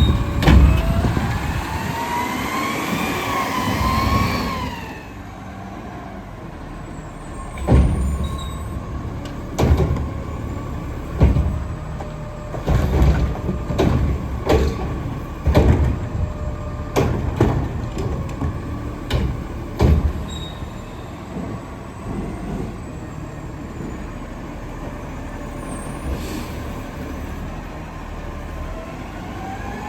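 Diesel Autocar garbage truck with a McNeilus front loader and Curotto Can working: the engine revs with a rising whine, then about a dozen knocks and thumps come roughly a second apart, and the whine rises again at the end.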